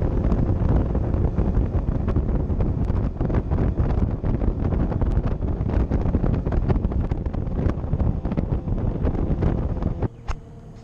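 Bass boat running across the water, with wind buffeting the microphone and many sharp knocks over a loud low rumble; it cuts off abruptly about ten seconds in.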